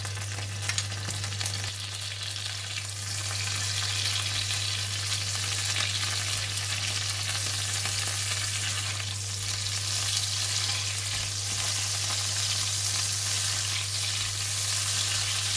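Salted fish and whole chillies frying in hot oil in a non-stick wok: a steady sizzling hiss that builds over the first few seconds and then holds, with a few light taps of a spoon near the start and stirring with a silicone spatula. A steady low hum runs underneath.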